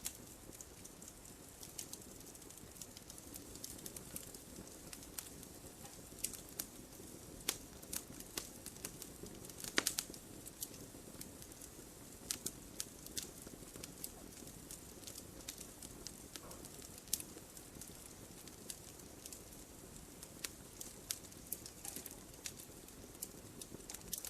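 Wood fire burning: irregular sharp crackles and pops of the burning wood over a low steady rush of flame, with one louder pop about ten seconds in.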